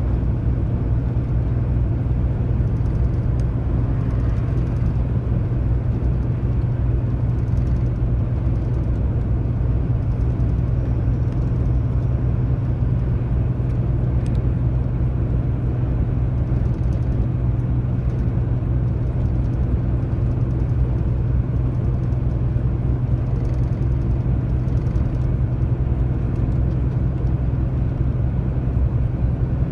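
Truck's diesel engine running steadily at cruise with road and tyre noise, a constant low drone heard from inside the cab.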